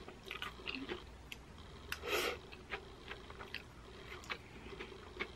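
Close-miked eating of spiralized zucchini noodles in pesto: a noodle strand is slurped in, then soft chewing with wet mouth clicks. A louder, longer breathy sound comes about two seconds in.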